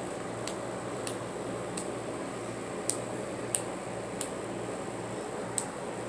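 Finger snaps: about seven short, sharp clicks at irregular intervals, each under a second or so apart, over a faint steady hiss.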